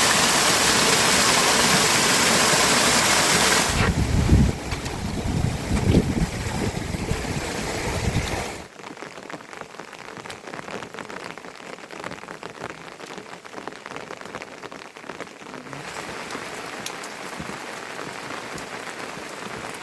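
Rain falling: a loud, even rush of heavy rain for the first few seconds, a few low thuds around the fifth and sixth seconds, then, after an abrupt drop near nine seconds, a quieter patter of individual raindrops.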